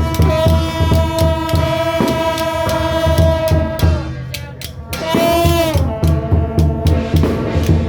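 Temple procession band music: a loud wind instrument holds a long steady note, then comes back about five seconds in with a note that bends up and down, over steady drumming and repeated cymbal crashes.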